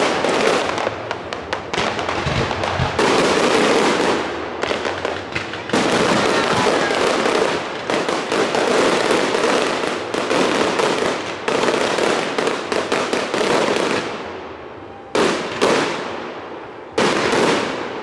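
Aerial firework shells bursting in a dense, continuous barrage of bangs and crackling, with loud fresh volleys about three, six, fifteen and seventeen seconds in.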